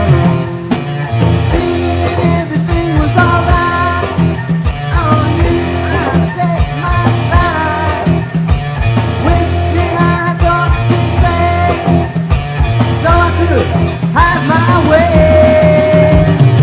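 1970s rock band recording in an instrumental passage: bass and drums under a lead guitar line with bent notes, ending on one long held note.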